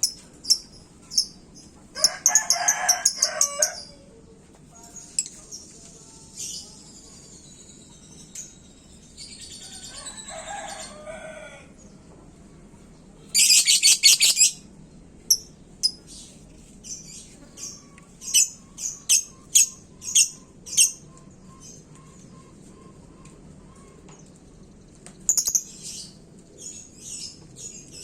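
Lovebird singing in sharp, high chirps, with a fast, loud trill about 13 seconds in. Other birds call back with lower-pitched calls, one like a rooster's crow about ten seconds in.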